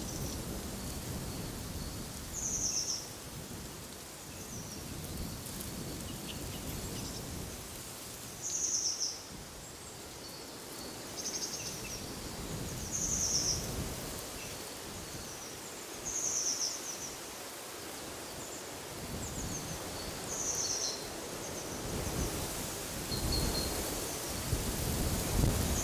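Birds chirping, short high calls repeated every two or three seconds, over wind gusting in the trees with a low rumble that swells and eases and builds near the end.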